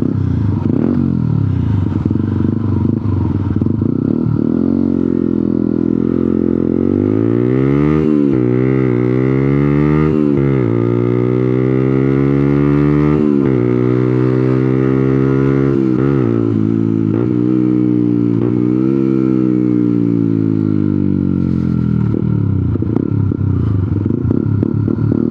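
125cc motorcycle engine running under the rider, low and even at first, then pulling away with its pitch climbing and dropping sharply several times as it shifts up through the gears, before easing back towards the end.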